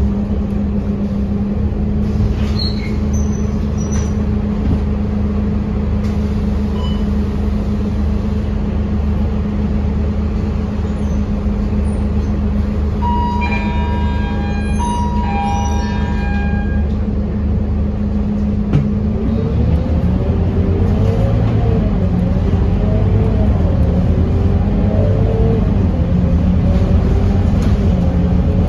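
Scania K230UB bus's diesel engine idling steadily, heard on board. A short run of electronic beeps sounds midway. About two-thirds of the way in, the engine picks up and its pitch rises and steps as the bus pulls away and accelerates.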